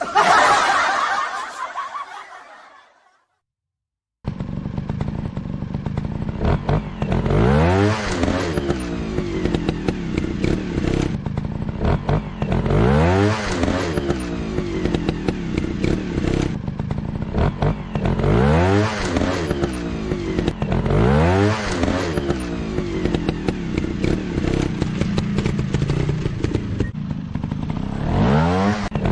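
A sound fades out over the first few seconds and is followed by a short silence. Then a dirt bike engine runs, revved up in quick rising blips every few seconds over a steady lower running note.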